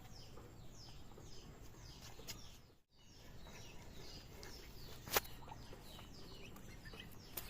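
A bird calling over and over with short chirps that fall in pitch, about two a second. A single sharp click sounds about five seconds in.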